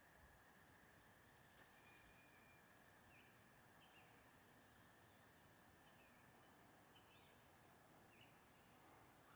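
Faint songbird calls: a short rapid trill about a second in, then a scatter of brief chirps every second or so. Under them runs a steady faint high tone and a low hiss of background noise.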